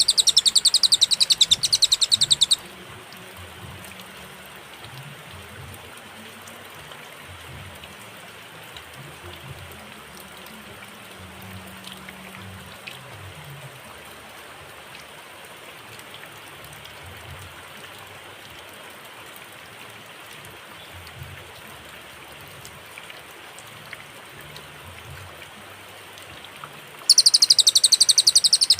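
Cililin song: a fast, high run of rapidly repeated notes that stops about two and a half seconds in. A long pause with only faint hiss and low rumble follows, and the song starts again near the end.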